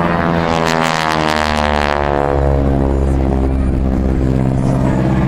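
A vehicle engine passing close by, loudest about a second or two in, its pitch falling as it goes past, over a steady low engine rumble.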